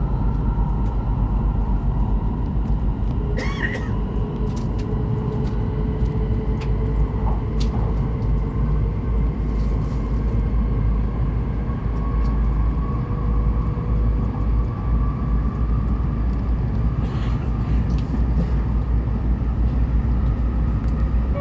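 Hokuriku Shinkansen train running at speed, heard from inside the passenger cabin: a steady deep rumble with a faint steady whine over it.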